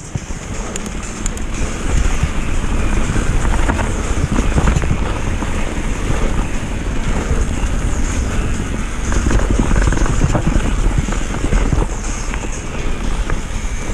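Wind buffeting the microphone and a downhill mountain bike rattling over rough ground at speed, a steady heavy rumble with scattered knocks and clicks that gets louder about two seconds in.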